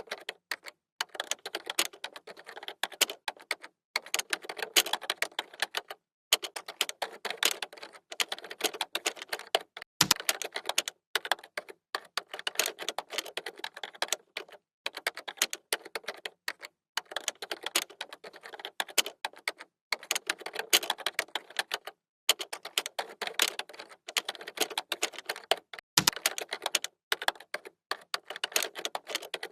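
Computer keyboard being typed on: fast runs of key clicks broken by short pauses, with a few heavier strokes such as a space bar or enter key about ten seconds in and again near the end.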